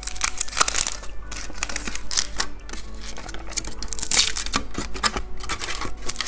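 Candy packaging being handled and opened by hand: quick irregular crinkling and clicking.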